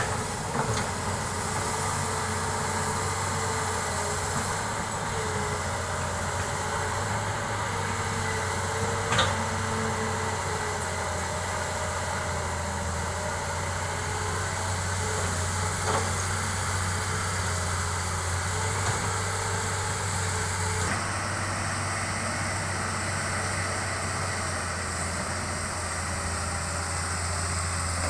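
Hitachi excavator's diesel engine running steadily, with two sharp knocks partway through.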